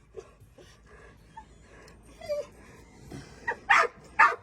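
A chained dog barking: a few faint whines and yips, then three loud, short barks in quick succession near the end.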